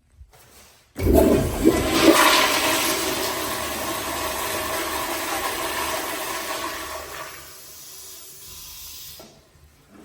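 American Standard Afwall wall-hung toilet flushing: a sudden loud rush of water about a second in. After about six seconds it eases to a quieter flow, which drops away shortly before the end.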